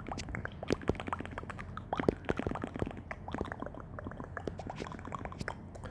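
Close-miked wet ASMR mouth sounds: rapid, irregular tongue clicks and lip smacks. They come thickest in the first half and thin out toward the end.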